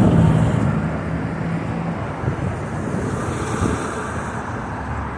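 Road traffic passing, with a steady engine hum that stops about two seconds in, over continuous traffic noise and wind on the microphone.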